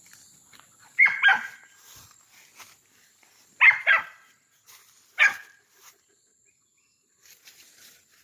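Dog barking in three short bouts: a couple of barks about a second in, a quick run of barks near four seconds, and a single bark past five seconds. The dog is barking up at a snake that has climbed the tree toward a nest of fledglings.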